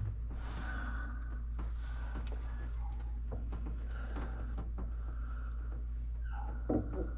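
Faint knocks and light rattles of a fuel pump assembly being manoeuvred out of a car's fuel tank, over a steady low hum, with a brief louder knock near the end.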